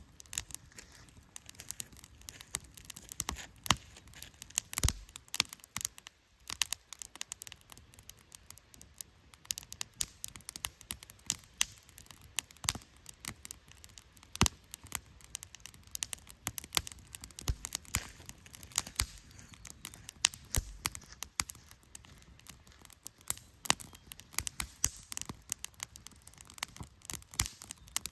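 Firewood burning in a campfire, crackling with many small irregular pops and occasional louder snaps over a low hiss.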